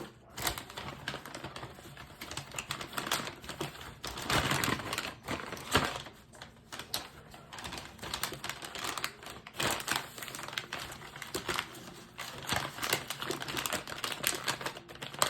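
Crinkling and rustling of a microwave popcorn bag being handled and folded, a steady stream of irregular crackles with louder crunches now and then.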